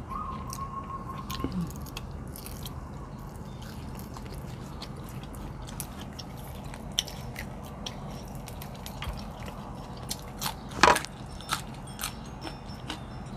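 Close-up mouth sounds of people chewing food eaten by hand, with scattered small wet clicks and a louder sharp click about eleven seconds in.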